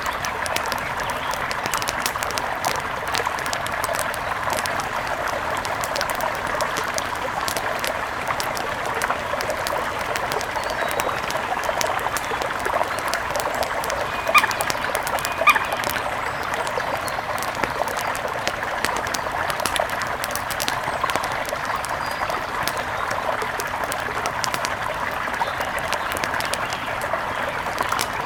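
Steady rush of a mountain river, with frequent light crackles of an outdoor fire through it. Two sharper, louder sounds come about halfway through.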